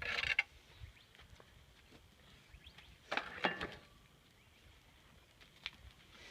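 Alpaca giving two short raspy, hissing sounds: one at the start and a slightly longer one with a thin squeal in it about three seconds in.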